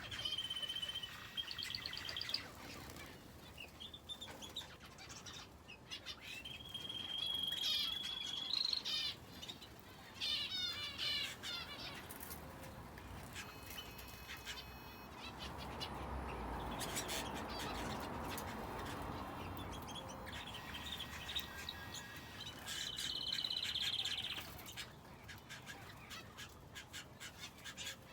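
Small cage birds, finches and a canary, chirping and singing, with short calls and a few held, buzzy trills. A soft rushing noise, such as wings or movement, rises in the middle and fades.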